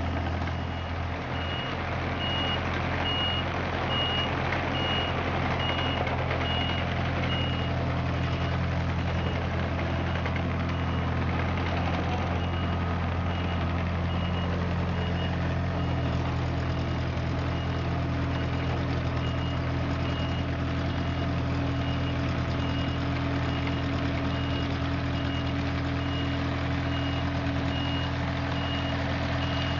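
Compact excavator's diesel engine running steadily, with its travel or backup alarm beeping in a high, even pulse about twice a second.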